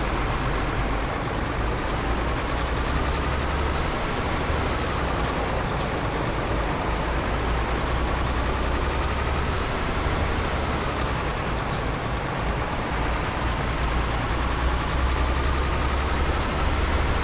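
Loaded tanker truck's diesel engine running steadily while driving, with a heavy low rumble and road noise; the engine note slowly rises and falls.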